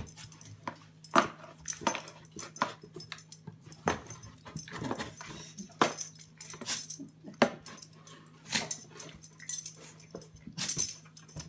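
A dog making short, sharp sounds among a run of irregular clicks and knocks, over a steady low hum.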